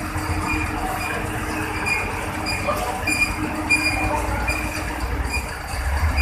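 Hino truck rolling slowly, its engine a steady low rumble, with repeated short high-pitched squeals over it.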